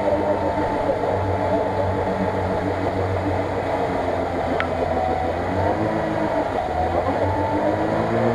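Lada Niva's engine running hard under load, its revs rising and falling a few times in the second half, as the stuck car spins its wheels through deep mud and water.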